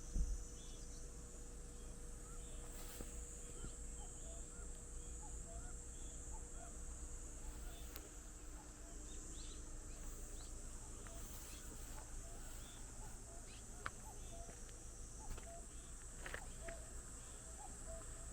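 Outdoor field ambience: a steady high insect chorus with many scattered short bird chirps, over a low rumble of wind on the microphone. A single low bump right at the start.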